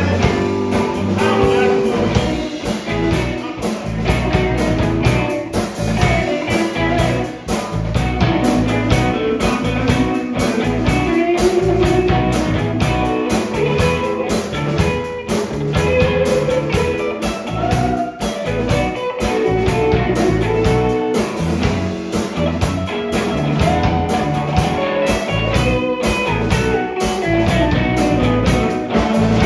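Blues band playing, with guitar lines over bass and a steady drum beat.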